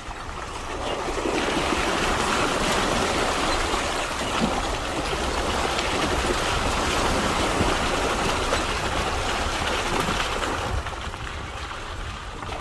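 Steady rushing hiss of a vehicle's tyres on a wet, muddy dirt trail, swelling about a second in and easing off near the end.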